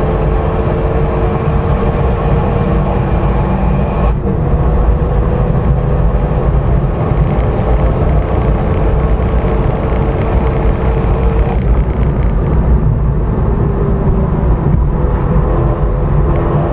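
Cabin sound of a Renault Mégane RS (third generation) driven hard on track: its turbocharged four-cylinder engine running steadily under load over tyre and road rumble. There is a brief break in the engine note about four seconds in, and the sound is less bright from about twelve seconds on.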